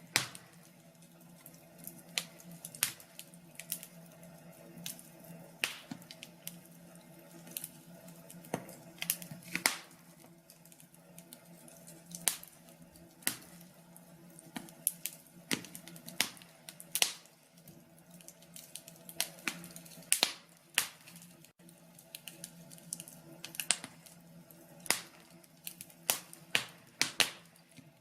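Wood fire crackling: irregular sharp pops and snaps, some close together and some a second or more apart, over a faint steady low hum.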